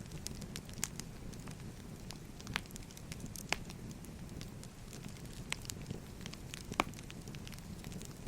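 Crackling wood fire: a steady low rumble of burning logs with irregular sharp pops and snaps, the loudest a little under seven seconds in.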